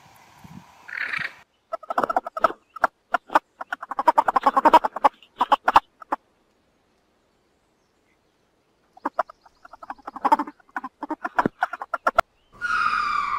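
A fowl calling in two runs of rapid pulsed notes with a silent gap of about three seconds between them. Near the end a different, higher call with a falling pitch begins.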